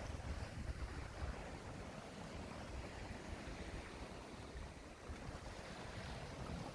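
Wind buffeting the microphone outdoors: a steady rushing noise with a gusty low rumble, strongest in the first second or so.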